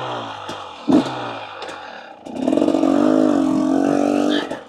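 KTM EXC 250 two-stroke enduro engine blipped sharply about a second in and falling back, then held at a steady higher rev with a slight rise and dip for about two seconds before dropping off near the end. A few light knocks come through as well.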